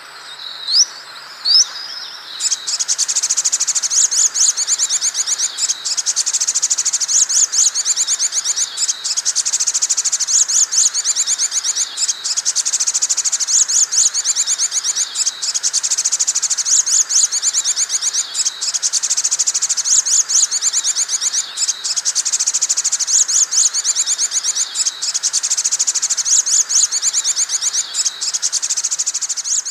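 Sogon bird lure call: two short rising whistles, then a loud, continuous, very rapid high-pitched trill broken by brief pauses every couple of seconds.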